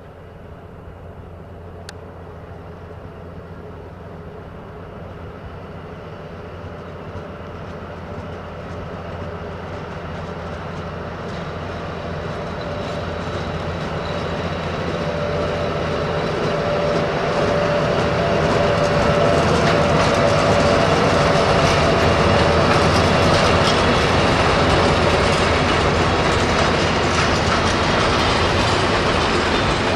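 Ex-DB V 100 diesel-hydraulic locomotive hauling a long freight train of container flat wagons, steadily louder as it approaches and passes. The engine drones low and steady, the wagon wheels clack over the rail joints, and a high squeal comes in about halfway through for several seconds.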